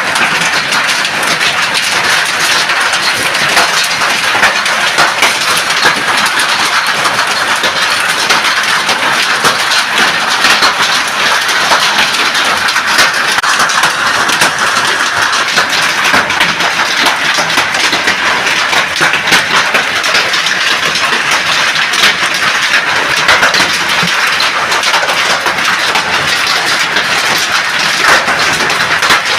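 Heavy rain with hail pelting down: a dense, steady hiss dotted with countless sharp cracking impacts.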